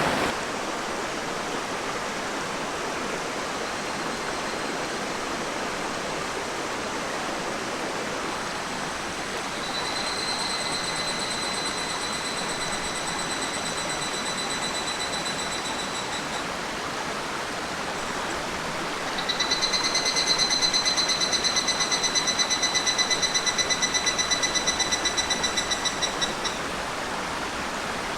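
River water running steadily. Twice, a high, rapidly pulsing trill rings out over it: once about ten seconds in for around six seconds, then again, louder, about nineteen seconds in for around seven seconds.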